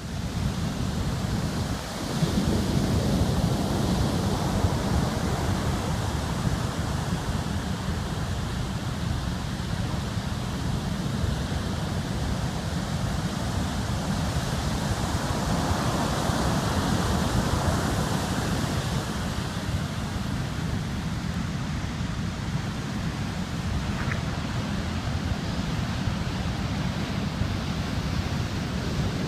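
Typhoon wind buffeting the microphone with a heavy low rumble, over the steady rush of surf and wind on the beach.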